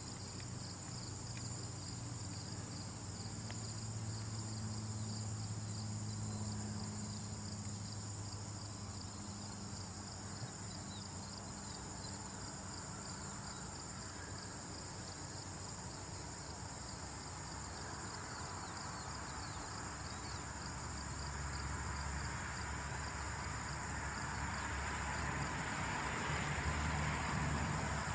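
Steady insect chorus, a dense, fast, high-pitched trilling, over a low rumble, with a soft rushing hiss swelling up over the last several seconds.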